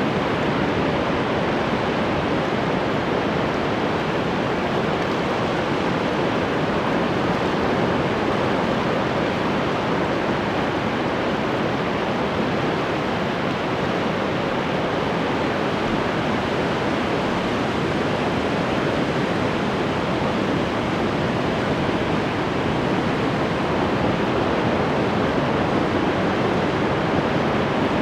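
Ocean surf washing onto the shore: a steady, even rush of water noise with no separate wave crashes standing out.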